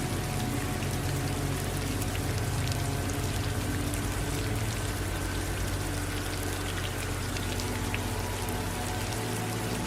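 Steady rain, with many individual drops pattering distinctly over an even hiss, and a low steady hum underneath.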